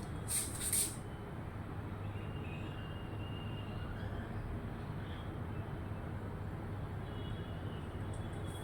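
Steady low traffic rumble with a few short, sharp bird chirps in the first second and faint thin bird calls a few seconds later.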